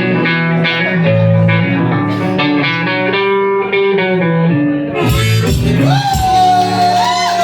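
Live blues guitar playing a picked riff. About five seconds in, the riff gives way to a long steady high tone with sliding tones above it as the song closes.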